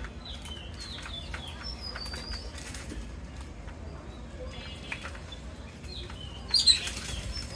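Parrots in an aviary flapping their wings and giving short, high chirps, with a loud flurry of wingbeats and a shrill call near the end.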